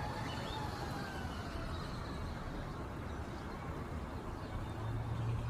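Steady low outdoor rumble, with faint short bird calls near the start.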